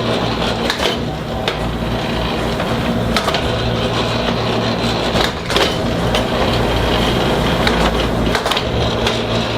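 A machine running steadily with a low hum, with scattered clicks and knocks over it.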